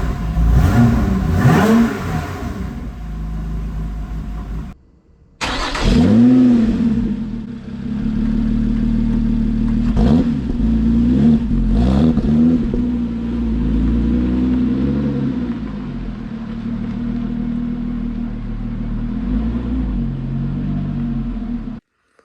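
Lotus 3-Eleven's supercharged 3.5-litre Toyota V6 idling and being blipped. It gives a series of quick revs that rise and fall, the biggest about six seconds in and a cluster a few seconds later. The sound drops out briefly just before five seconds and cuts off suddenly near the end.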